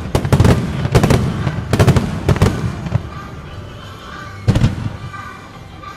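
Aerial fireworks shells from a starmine barrage bursting in quick succession: a dense volley of sharp bangs over the first three seconds and another loud bang about four and a half seconds in. Music plays underneath.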